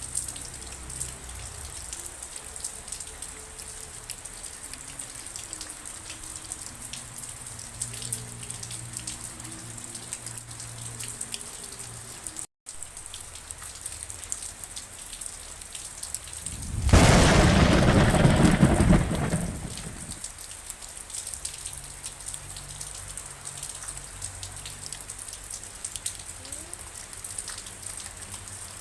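Steady rain falling, with fine pattering ticks. About seventeen seconds in, a loud thunderclap breaks in suddenly and rumbles for about three seconds before fading back under the rain. The sound cuts out for an instant just before halfway.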